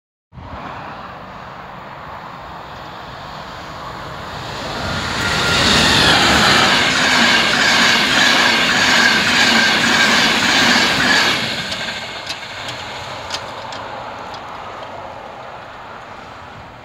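Irish Rail Mk4 InterCity passenger train, diesel-hauled, passing close by: a rumble that grows as it approaches and is loudest for about six seconds as the carriages go past, with a steady high tone through the loudest part. It then fades away, with a few sharp clicks near the end.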